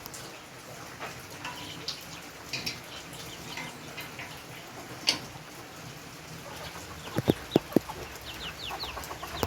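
Chickens clucking, with a cluster of loud, sharp clucks about seven seconds in and quick high chirps near the end.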